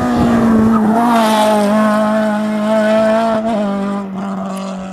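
Race car engine held at high revs, its pitch sagging slowly, then dropping a step about three and a half seconds in as the sound grows fainter.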